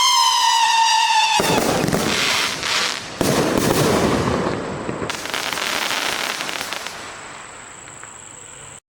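Fireworks cake shots going off. A falling whistle ends about a second and a half in, when a loud burst of crackling begins. A second crackling burst follows about two seconds later and fades away over several seconds before the sound cuts off.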